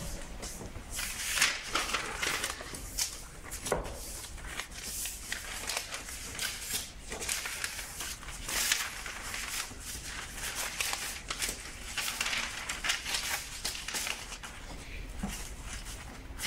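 Loose sheets of paper rustling and shuffling by hand in repeated short bursts as they are gathered up and stacked together with a textbook.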